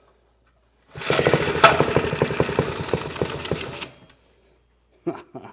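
Old minibike's single-cylinder Briggs & Stratton engine starting about a second in and running roughly and fast for about three seconds, then dying away.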